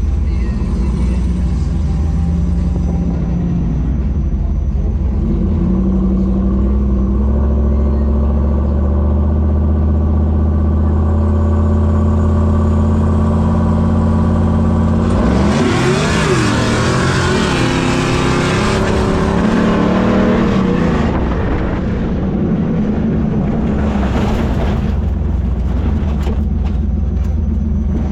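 A race vehicle's engine running steadily at a low rumble, then revved hard for several seconds about halfway through, its pitch rising and falling, before settling back to a steady low running.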